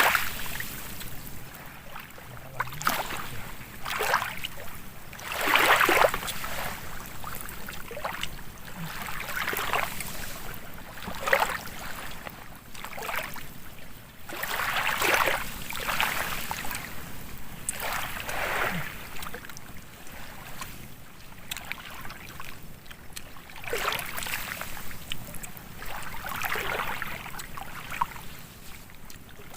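Small waves lapping and splashing in irregular swells every second or two, with some wind noise.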